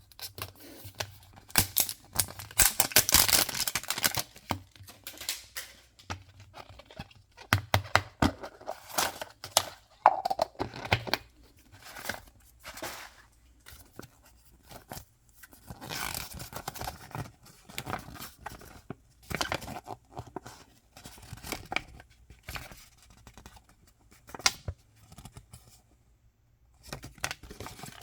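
Toy packaging being torn open and handled: irregular tearing, crinkling and clicking in bursts, busiest a few seconds in, with a short lull near the end.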